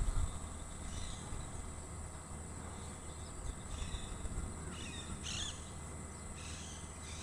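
Small birds giving short, high chirps every second or so, over a steady high-pitched insect drone and a low rumble.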